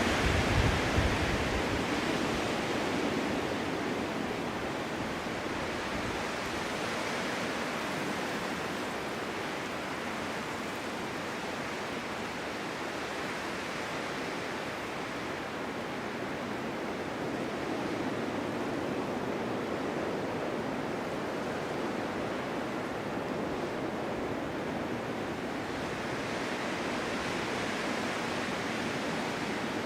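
Snowstorm wind blowing steadily, a rushing that swells and eases. A strong gust with a low rumble comes right at the start, and it swells again about two-thirds of the way through and near the end.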